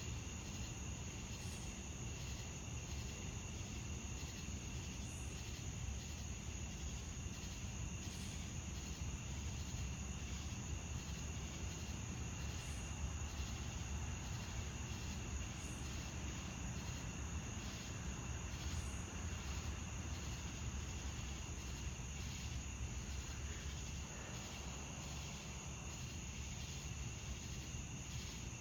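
Chorus of night insects, crickets and katydids, chirring in steady high pulsing tones over a constant low rumble.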